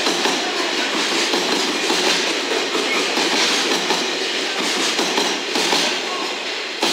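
Container wagons of a long freight train rolling past at speed, a steady rolling and rattling noise of wheels on rails that swells slightly every second or so as the wagons go by.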